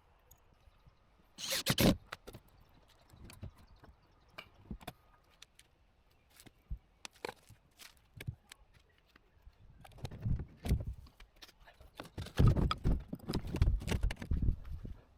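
Hand work on wooden boat parts and fittings: scattered clicks and small knocks, a louder rustling clatter about a second and a half in, and a busier run of knocks and thuds through the last five seconds.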